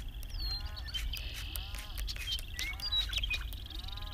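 Birds calling: a short arched call repeats about once a second over higher chirps and a buzzy trill, with a low steady rumble underneath.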